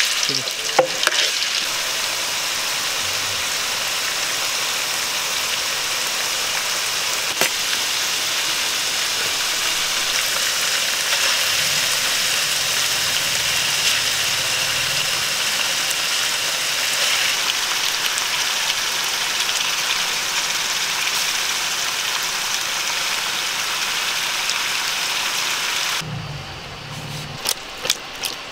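Oil and curry gravy sizzling steadily in an aluminium pot on a gas stove while it is stirred and pieces of fish are cooked in it. About 26 s in the sizzle stops, and a few sharp clicks and knocks follow.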